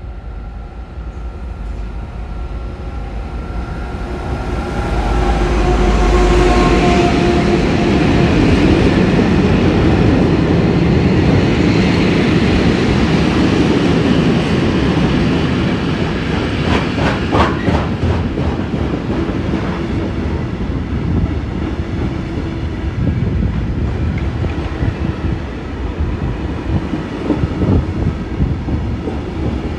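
A Vossloh DE18 diesel locomotive hauling a freight train passes, its engine loudest about five seconds in, then the wagons roll by with wheels clattering over rail joints, most clearly a little past the middle.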